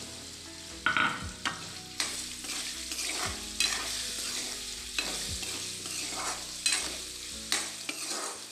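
Soya chunks frying in hot oil in a kadhai: a steady sizzle, with a metal spoon stirring them and striking or scraping the pan about eight times.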